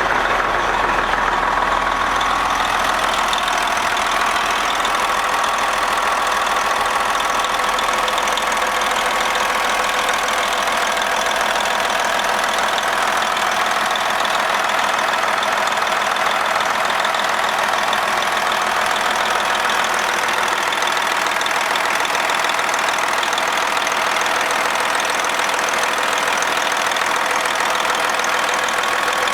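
Detroit Diesel Series 60 12.7 L inline-six diesel engine idling steadily, with the even rapid clatter of its firing.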